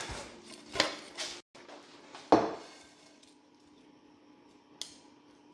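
Kitchen utensils and dishes clattering during food prep: a few sharp knocks in the first two and a half seconds, the loudest about two and a half seconds in, then quiet with one small click near the end.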